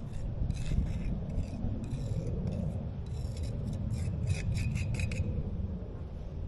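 A run of rasping, scraping strokes, as of a hand tool worked back and forth over a rough surface, coming faster near the end and stopping about five seconds in, over a steady low rumble.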